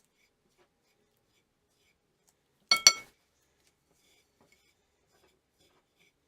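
Two quick clinks about three seconds in, something hard striking glass or a dish, each with a brief ringing tone.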